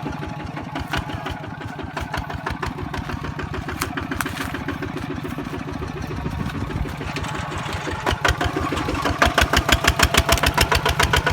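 Kubota RT155 single-cylinder diesel engine on a farm truck, chugging steadily with evenly spaced firing beats, which grow louder and sharper about eight seconds in.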